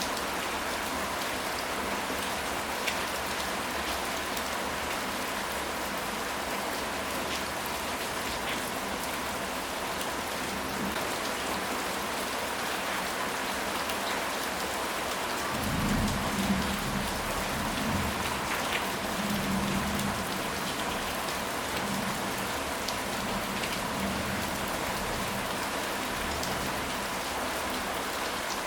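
Steady rain falling, with individual drops ticking now and then. About halfway through, a low rumble of thunder swells for a few seconds and then fades back under the rain.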